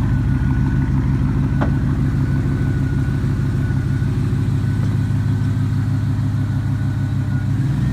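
1999 Ford Mustang GT's stock 4.6-litre two-valve V8 running steadily at a low idle, with no revving.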